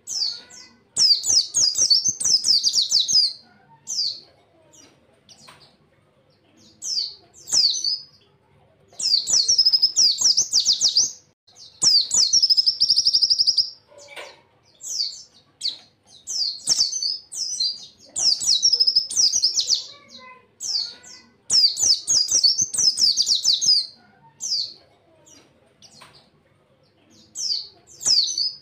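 A pleci (white-eye, Zosterops) singing rapid, high-pitched twittering phrases, about a dozen bursts of one to three seconds each, separated by short pauses.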